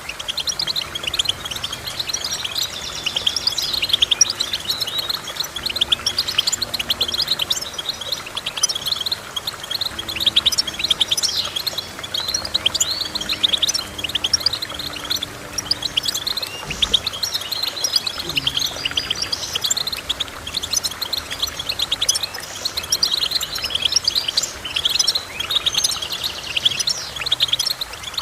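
Finch song: a continuous, rapid run of twittering chirps and trills, with faint low held tones beneath it for much of the stretch.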